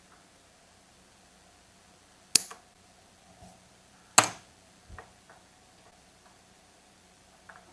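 Two sharp snips about two seconds apart as cutters cut through rubber chainsaw fuel line to trim it to length, with a few faint handling ticks in between.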